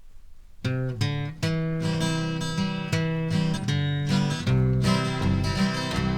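Acoustic guitar intro to a country-folk song: strummed chords begin with a sharp stroke about half a second in and continue steadily, with fuller low notes joining about two-thirds of the way through.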